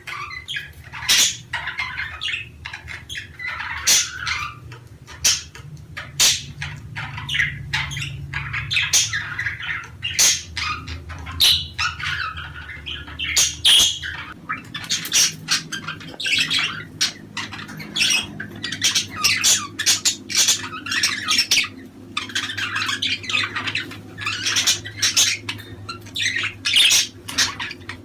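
A group of budgerigars chattering continuously, with rapid squawks, chirps and warbles, over a steady low hum. This is the lively flock chatter played to pet budgies to encourage pairs to breed.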